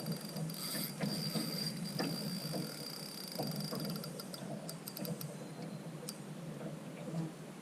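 Fishing reel being cranked with light, rapid ticking while a northern pike is played on the line.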